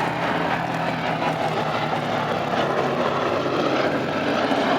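B-17G Flying Fortress's four Wright Cyclone radial engines running steadily, a continuous propeller-aircraft drone.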